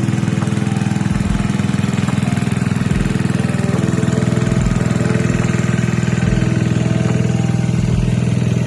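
Small gasoline-engine water pump running steadily at a constant speed while pumping water out of a swimming pool.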